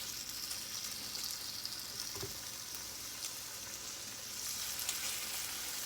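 Chicken tenders sizzling steadily in hot oil in a frying pan, the sizzle a sign that the pan is hot enough. A light knock sounds about two seconds in.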